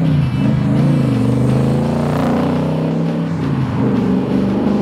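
Superformance Cobra's 392 cubic-inch stroker V8 running through its side-exit exhaust as the car drives past and away. The engine note dips and wavers in the first second, then runs fairly steady.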